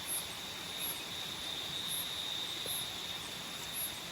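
Nocturnal tropical forest insects: one high trill held steady without a break, and a second, higher-pitched insect chirping about once a second, over a steady hiss.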